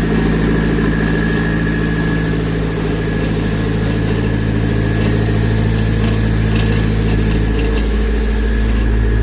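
Nissan SR20DET 2.0-litre turbocharged four-cylinder engine idling steadily on a test stand, warmed up to about 85 degrees. It is being checked and shows no exhaust gases in the cooling system, a sign of a sound head gasket.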